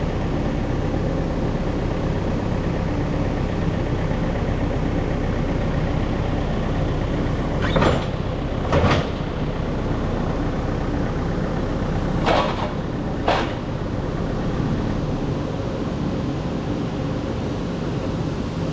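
An engine runs steadily. Near the middle come two pairs of sharp metallic clanks, each pair about a second apart.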